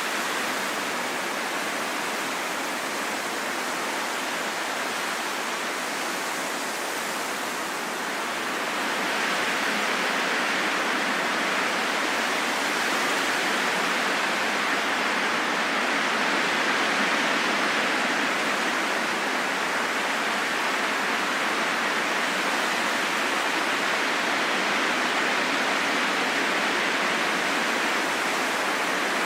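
Steady rain falling in a forest: a dense, even hiss with no distinct drops, growing slightly louder about nine seconds in.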